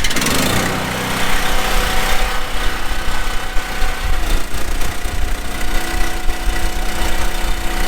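A vehicle engine idling steadily, its pitch holding even throughout.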